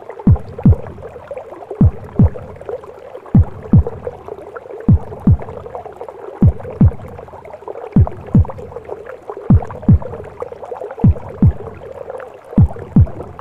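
Womb sounds: a mother's heartbeat as slow, deep double thumps (lub-dub), one pair about every second and a half, over a steady muffled whooshing rush.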